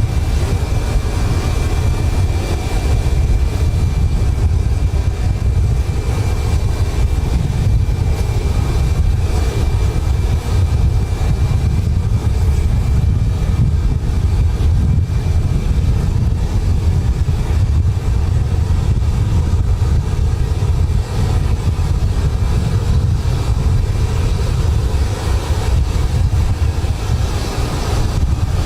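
Loud, steady low rumble of strong wind and aircraft noise at an airport, with a faint steady high whine through about the first half.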